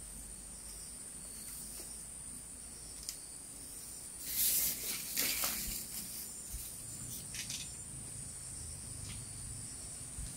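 Insects chirring in one steady, high-pitched note, with a short, louder rushing hiss about four seconds in.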